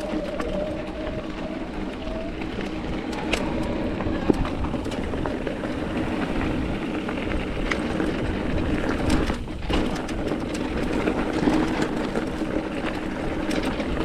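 Mountain bike rolling over loose rock and gravel: steady tyre crunch and bike rattle, with frequent sharp clicks and knocks.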